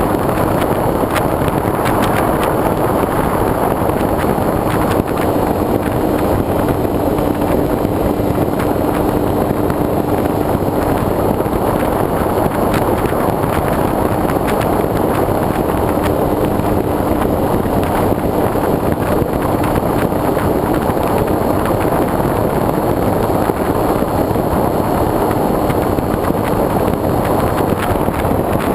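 Steady rush of airflow buffeting a wing-mounted GoPro's microphone, with the continuous drone of the foam RC airplane's motor and propeller beneath it.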